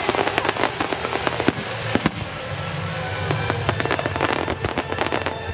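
Fireworks display barrage: shells bursting in rapid succession, dense sharp bangs and crackles several times a second, picked up by a camera's built-in microphone.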